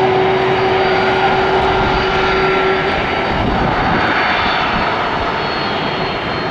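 Jet airliner's engines, a loud steady rush with a thin whine that drops away about halfway through.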